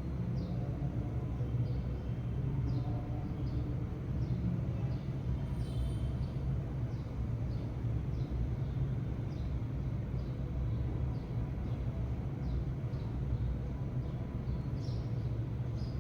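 Sparrows chirping, short high falling chirps repeating irregularly about once or twice a second, over a louder steady low rumble.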